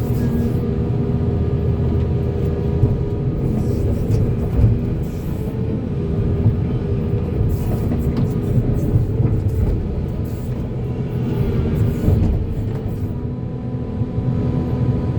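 Diesel engine of a Volvo excavator running steadily under working load, with a few sharp knocks and clanks from the machine at work.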